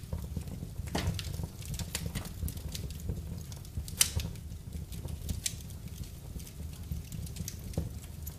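Wood fire in a fireplace crackling, with irregular pops and a sharp loud snap about four seconds in, over a low steady rumble.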